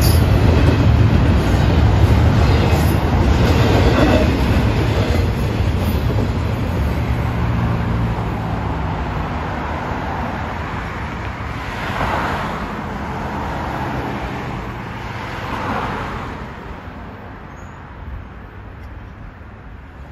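Double-stack container freight train rolling past, its wheels rumbling and clattering over the rails. The sound fades away over the first several seconds as the last cars clear. After that, road vehicles pass by with a whoosh twice.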